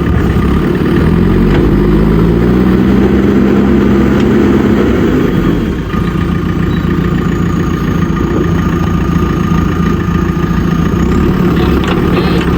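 Diesel engine of a JCB backhoe loader at work: it revs up about a second in, holds high revs for a few seconds, then drops back to a lower steady speed about five seconds in. A thin steady whine runs above the engine in the second half.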